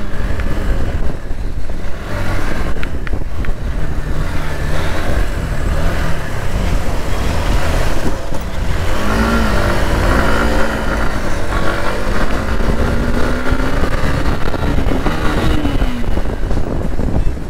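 Hero Xtreme 160R motorcycle's single-cylinder engine accelerating hard under way, its pitch climbing through the revs around the middle and again near the end as it is ridden through the gears.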